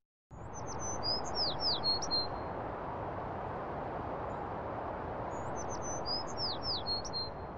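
A songbird singing a short phrase of high whistles with quick downward slurs, twice about five seconds apart, over a steady background hiss.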